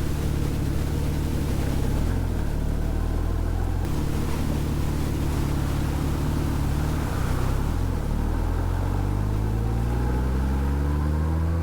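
2006 Honda Gold Wing GL1800's flat-six engine running at a steady cruise, then accelerating from about eight seconds in, its pitch climbing to the end.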